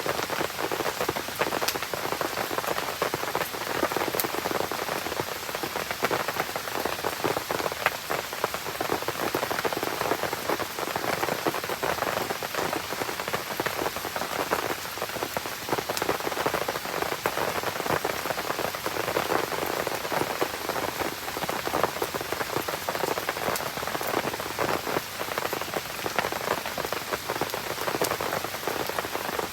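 Steady rain falling and pattering on surfaces, a dense even hiss with scattered sharp ticks of individual drops.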